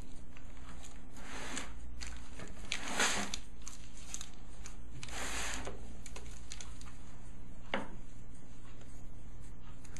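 Several short rustling and scraping strokes from handling cake-making materials, with one sharp click near the end, over a steady low hum.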